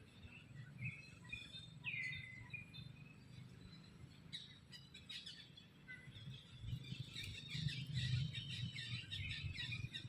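Birds chirping: scattered calls, a clearer curving call about two seconds in, and a thicker run of chirps in the second half, over a low rumble.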